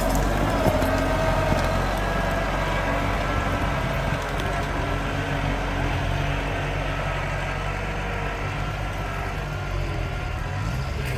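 Tractor engine running steadily, a continuous low rumble with a faint steady whine above it.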